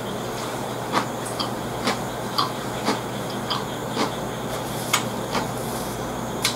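Close-up chewing of crisp lightly pickled cucumber: short crunches about twice a second, a little uneven, over a low steady hum.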